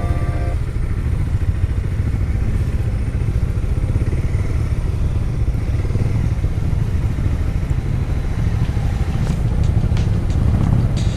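Motorcycle engine running with rumbling wind noise on the microphone, and a few short clicks or knocks near the end.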